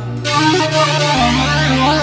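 Electronic keyboard wedding dance music: a synthesizer melody moving in small steps over a steady low drone, picking up about a third of a second in.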